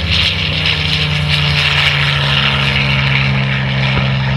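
Curtiss-Wright SB2C-5 Helldiver's Wright R-2600 Cyclone 14-cylinder radial engine running with a steady propeller drone.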